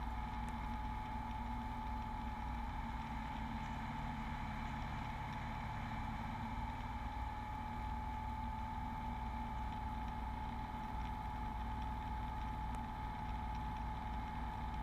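Steady drone of a Beechcraft Bonanza V35's piston engine and propeller in flight, heard in the cockpit, with a thin constant tone above it.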